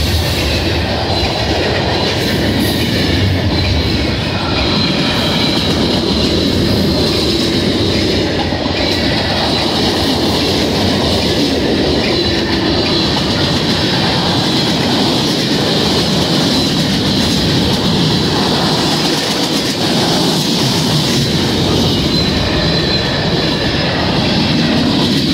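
Freight train cars rolling past close by: a loud, steady rumble and clatter of steel wheels on the rails, with a faint steady high whine above it.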